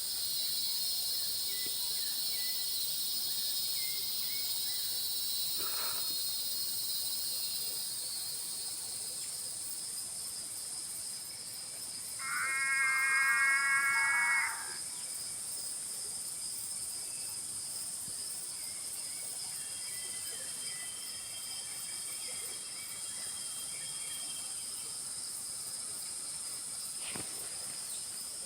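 Dusk chorus of frogs and insects: a steady high-pitched trilling, with one louder pulsed frog call of about two seconds roughly twelve seconds in and a fainter pulsed call later.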